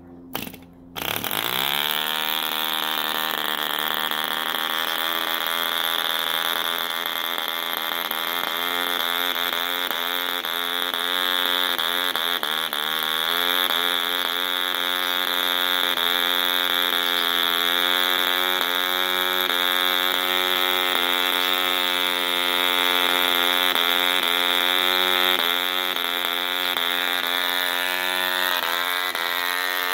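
Movo D2 model-aircraft diesel engine turning a 10x5 propeller: a couple of sharp flicks, then it catches about a second in and runs steadily at high revs with a buzzing note. Its speed rises a little about halfway through.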